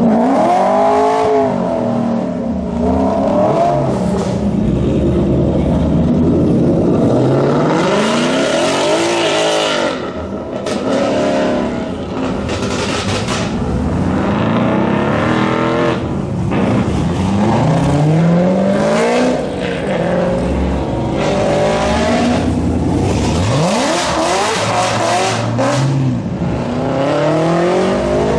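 Car engines revving and accelerating one after another, their pitch rising and falling many times over.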